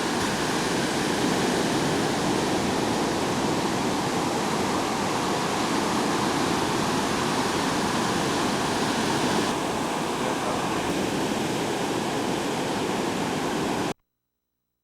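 Steady rush of ocean surf breaking on a beach. It cuts off abruptly to silence near the end.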